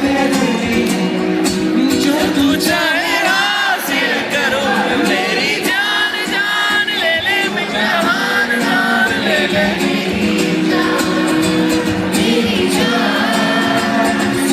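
Live concert music recorded from the audience: amplified singing over a band with a steady beat, with crowd noise mixed in.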